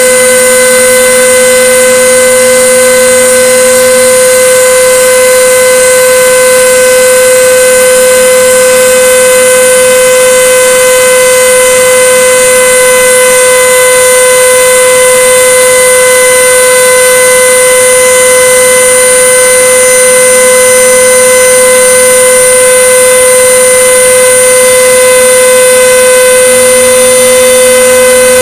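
CNC router spindle running with a steady high whine while milling 5 mm plywood, with a fainter lower hum that starts and stops every few seconds as the machine moves along the cut.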